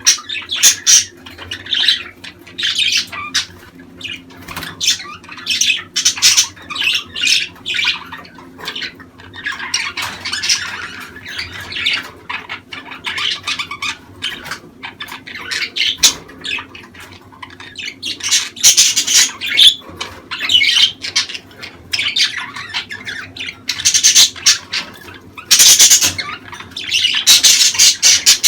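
Budgerigars chattering and squawking, a busy run of short, high calls that swells into louder bursts every few seconds.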